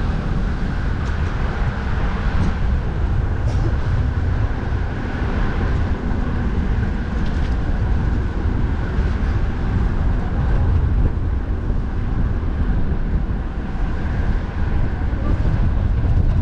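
Steady low rumble of wind buffeting the microphone, mixed with the hiss and drone of road traffic.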